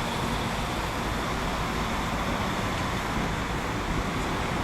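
Steady railway station ambience: an even low rumble and hiss from trains standing at the platforms, with no distinct event.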